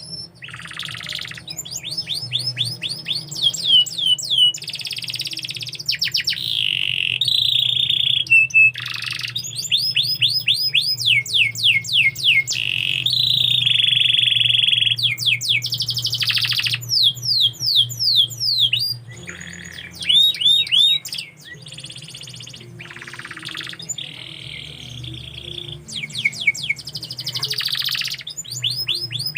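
Domestic canary singing: rapid runs of repeated falling notes and rolling trills, phrase after phrase with short breaks, over a faint steady low hum.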